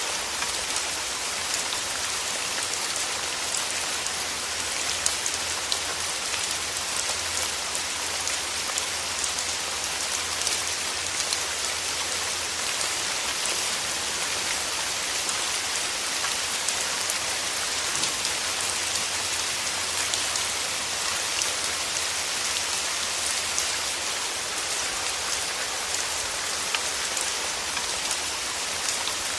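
Steady rain: an even hiss of falling rain with scattered single drops ticking more sharply over it.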